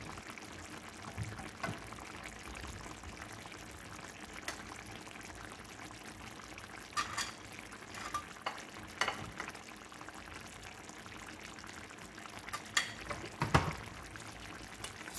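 Chicken and shiitake mushrooms in a thick ginger sauce simmering and bubbling in a pan on the stove, with occasional clinks and knocks of dishes and utensils, the loudest about 13 seconds in.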